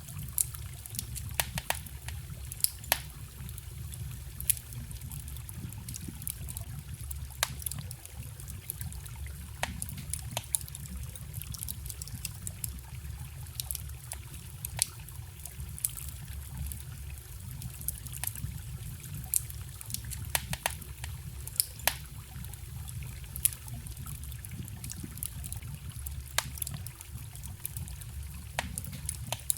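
Wood fire crackling, with irregular sharp pops, over the steady trickle and rush of a small forest stream.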